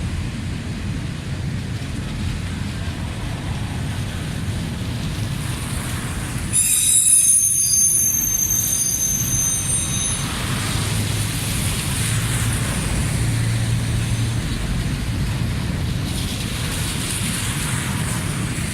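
Freight train rolling past, a steady low rumble of wheels on rail, with a high-pitched metallic wheel squeal for a few seconds in the middle as the loudest moment.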